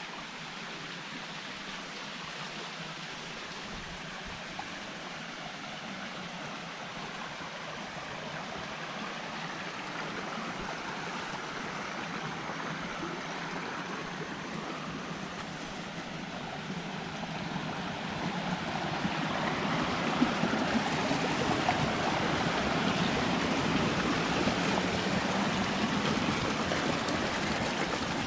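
Rushing water of a stream, a steady hiss that grows louder about two-thirds of the way in, with a few faint knocks.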